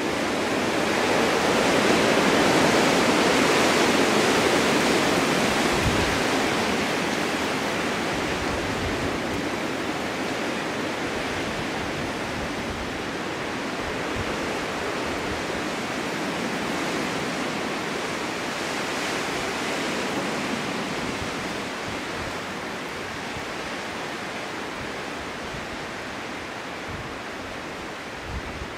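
Snowstorm wind blowing, a steady rushing that swells loudest a few seconds in and then slowly eases off.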